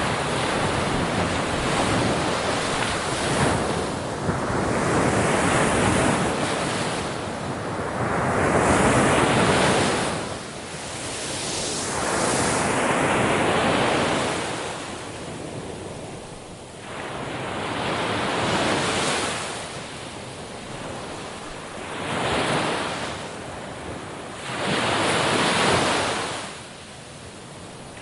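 Ocean waves breaking on a shore one after another, each a swelling rush of surf every few seconds that washes up and fades away before the next.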